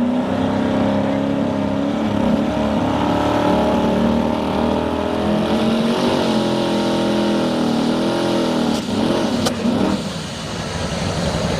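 Modified two-wheel-drive pulling truck's engine running at high revs, its pitch wavering and swooping down and up about nine seconds in before it drops off. The engine is giving trouble.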